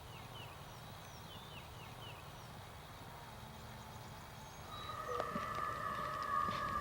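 Birds chirping in short, falling calls over quiet outdoor background. About four and a half seconds in, a steady whine of several held pitches starts and grows louder.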